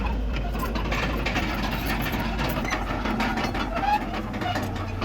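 Bulldozer's diesel engine running, with irregular metallic clanks and knocks over it; the engine note steps up near the end.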